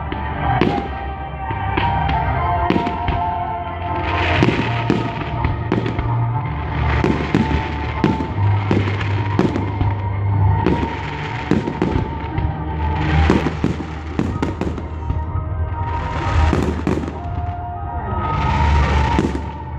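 Fireworks bursting in a rapid string of bangs, with denser volleys about four, thirteen and seventeen seconds in, over music with a steady deep bass.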